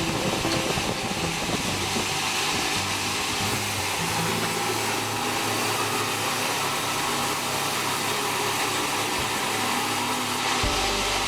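Sawmill saw running steadily with a whirring mechanical noise, as it does while sawing acacia logs.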